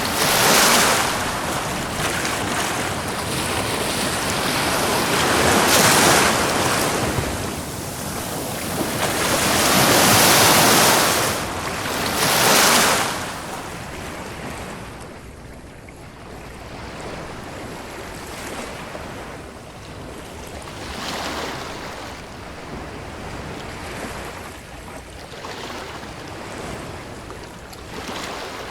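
Ocean waves breaking and washing up a beach: several loud surges in the first half, then a softer, steadier wash of smaller waves.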